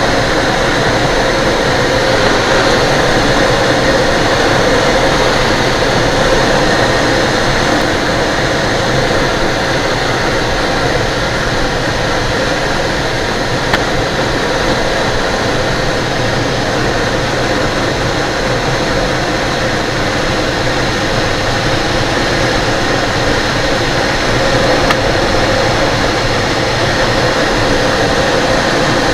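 Steady airflow rushing past the cockpit of an ASG 32 Mi glider on landing approach, with the spoilers about half out.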